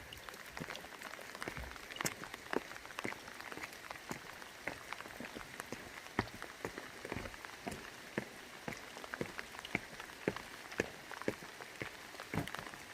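Rain falling, with individual drops tapping sharply and irregularly, a few each second, over a steady hiss.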